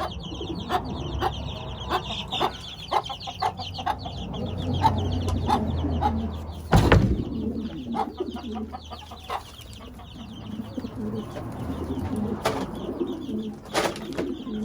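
Chickens and other penned birds calling, with a loud thump about seven seconds in.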